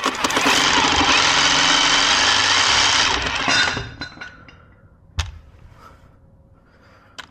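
A power tool runs in one continuous burst of fast, rattling strokes for about three and a half seconds, then stops; a single sharp knock follows about five seconds in.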